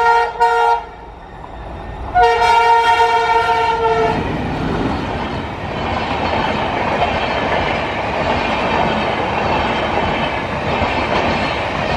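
Train horn of a speeding express: the last of a string of short toots, then one long blast of about two seconds starting about two seconds in. It is followed by the train passing at speed, with a steady clatter of wheels on the rails.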